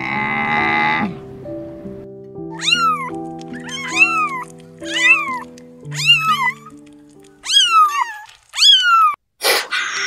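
Kittens meowing: six high meows, each rising then falling in pitch, over soft piano music. A short rough animal call comes right at the start, and harsh noisy bursts come near the end.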